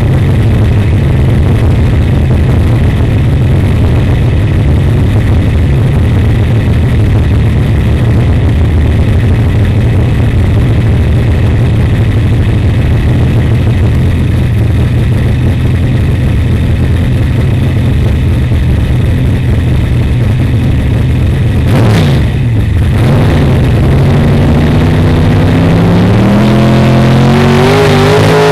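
Pro Stock drag car's V8 engine heard on board, running loud and steady. About 22 seconds in its pitch dips briefly, then climbs steadily toward the end as the engine revs up.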